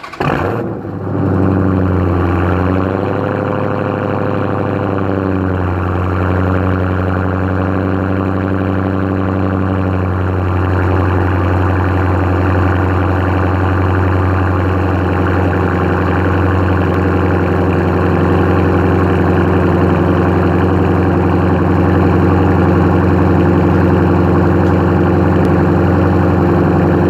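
Straight-piped 6.4-litre HEMI V8 of a 2016 Dodge Challenger, with mufflers and resonators deleted, firing up at the start. It runs at a fast idle, then settles after about five seconds to a lower, steady, loud idle.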